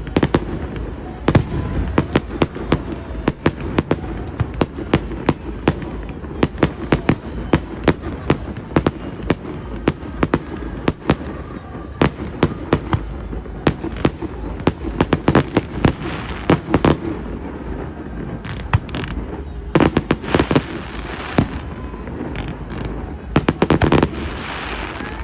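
Fireworks display: a rapid string of sharp bangs from exploding aerial shells, two or three a second, with a few denser clusters of overlapping bursts in the second half.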